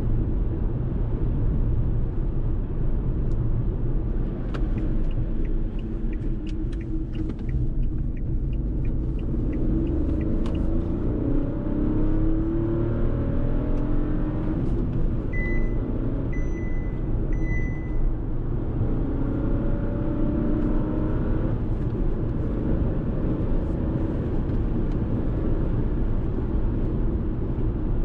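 Fiat Tipo's 1.0-litre turbo three-cylinder petrol engine and road rumble while driving, the engine note rising twice as the car accelerates. Three short high-pitched electronic beeps sound about halfway through.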